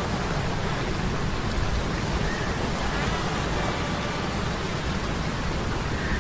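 Steady sea-storm ambience of rain and surf noise layered over a low hum of metal gears, with faint high whining tones coming and going.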